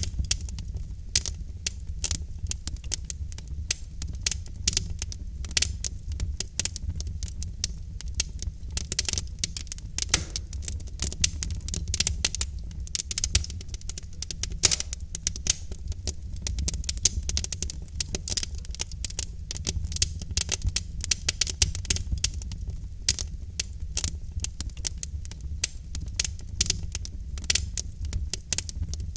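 Wood fire in a fireplace crackling, with many quick irregular pops and snaps over a steady low rumble of the burning logs.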